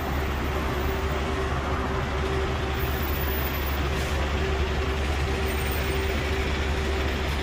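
Steady low rumble of a large vehicle's engine running, with a constant hum over it.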